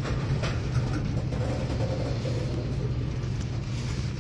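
Slow-moving freight train: a steady low rumble with the drone of its diesel locomotives straining to pull the heavy train, and a few faint clicks.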